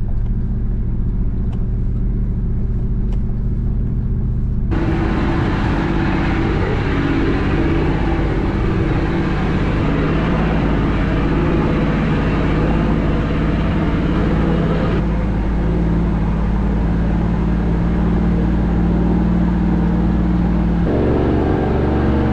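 Four-wheel-drive vehicle driving along a dirt fire trail, its engine running steadily under the road noise. The sound changes abruptly three times, as between cut-together driving clips.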